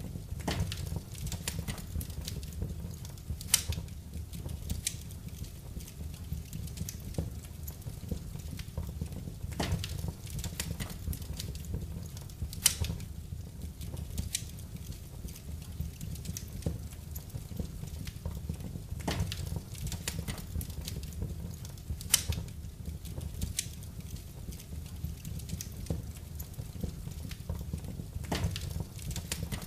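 Wood fire burning in a fireplace: irregular crackles and a few sharp pops over a steady low rumble.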